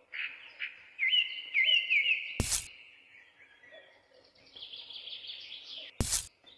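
Birds chirping in short rising calls, with two sharp clicks: one about two and a half seconds in and one near the end.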